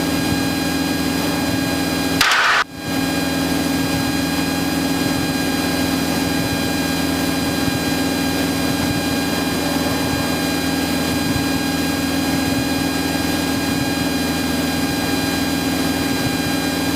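Cessna 172's engine and propeller droning steadily in flight, heard inside the cockpit. About two seconds in, a short burst of hiss cuts in, with the sound dropping out briefly on either side of it.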